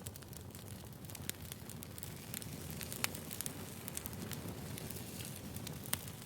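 Firewood burning: a steady low rush with frequent sharp crackles and pops, and two louder snaps about three and six seconds in.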